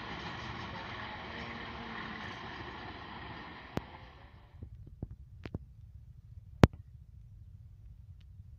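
Distant train approaching along the track, a steady running noise that cuts off about four and a half seconds in. After that only a low rumble remains, broken by a few sharp clicks and knocks, the loudest a little past halfway.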